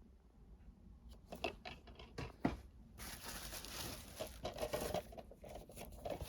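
Packaging handled by hand while unboxing discs: a few sharp clicks and knocks, then a stretch of rustling and crinkling starting about three seconds in.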